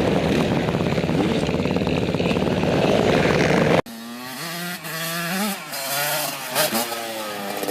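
Dirt bike engine running loud and close. About four seconds in, the sound cuts off abruptly and is replaced by quieter motocross bikes revving, their pitch rising and falling.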